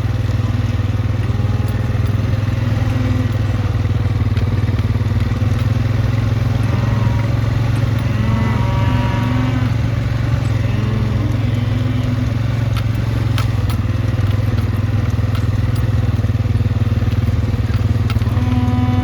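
A small vehicle's engine running steadily with a constant low hum.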